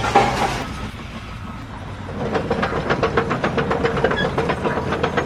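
A rapid, regular mechanical clatter, about five clicks a second over a steady hum, starting about two seconds in.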